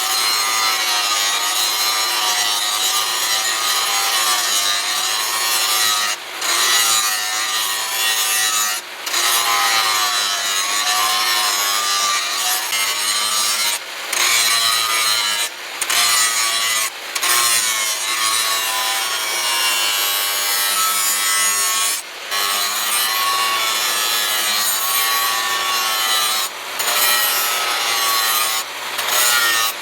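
A power grinding or sanding tool running under load, its pitch wavering as it works, with short dips in the sound every second or two as it is eased off the work.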